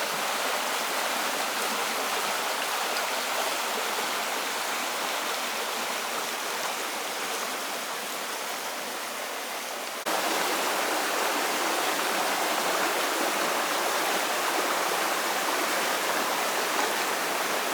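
Steady rushing of flowing water; it steps up a little louder about ten seconds in.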